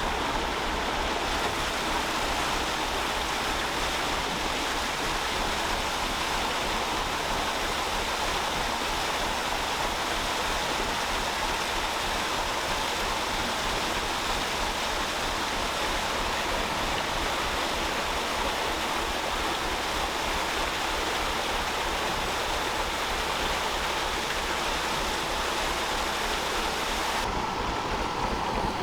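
Water rushing steadily through open canal lock paddles, a continuous loud gush. Beneath it is the low, regular beat of the narrowboat's Gardner 2LW diesel ticking over. Near the end the rush turns duller.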